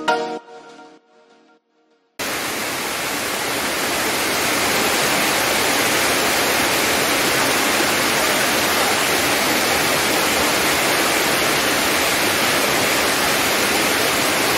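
Background music fading out, a moment of silence, then the steady rushing roar of a waterfall that cuts in abruptly about two seconds in and continues unbroken.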